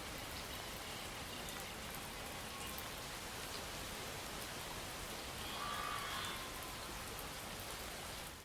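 Steady rain falling: an even hiss with scattered drop ticks. A brief faint pitched call sounds about six seconds in.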